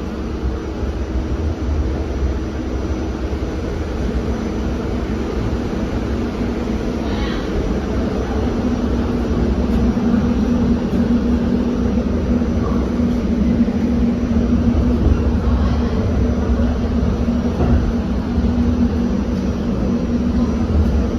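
Staten Island Railway R44 subway train running: a steady low rumble of wheels on rail. A steady motor hum comes in about eight seconds in, and the whole sound grows slowly louder.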